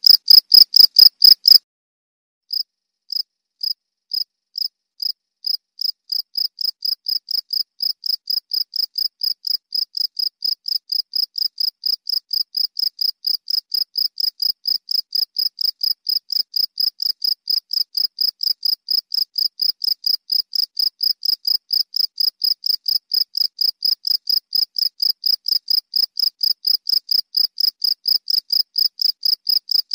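A cricket chirping, a single clear high tone in regular pulses. The chirping stops briefly about two seconds in, then starts again slowly and quickens to an even rapid chirp of about three a second, growing slightly louder.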